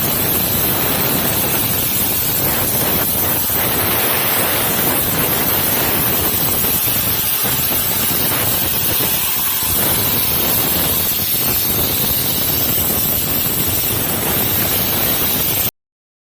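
Portable CNC plasma cutter's torch cutting metal: a loud, steady hiss of the arc and air jet with no pitch or rhythm. It cuts off abruptly near the end.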